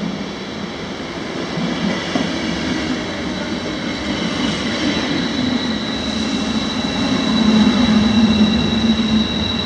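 A train running on rails: a steady rumble with a high, steady whine above it. The rumble grows louder about seven seconds in.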